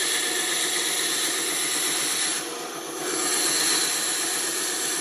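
Band saw running, a steady machine noise with a faint whine, dipping briefly about two and a half seconds in.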